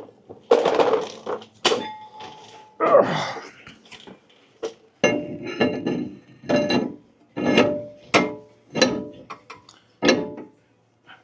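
Irregular series of about a dozen metal clanks and knocks, several ringing on briefly, from steel brake parts and tools being handled.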